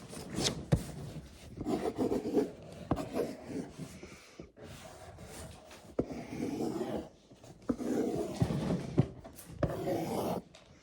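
Pencil drawing on paper: scratchy strokes in several runs with short pauses between them, and a few sharp taps of the pencil.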